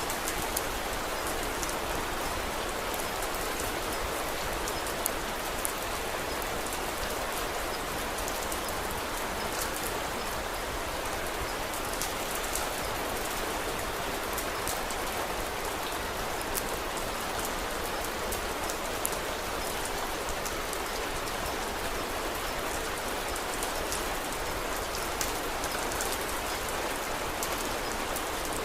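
Steady rain falling: a dense, even hiss with scattered small sharp ticks of drops.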